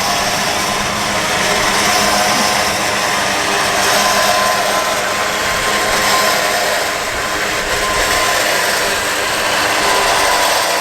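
Powered boat winch running steadily, hauling a 13 ft boat out of the water on its rope, with a steady motor whine over a noisy hum.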